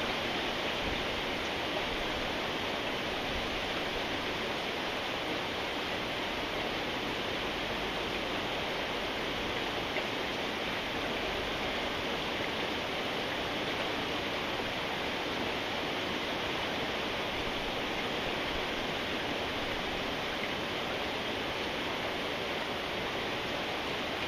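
Steady rain falling, an even unbroken hiss of rain.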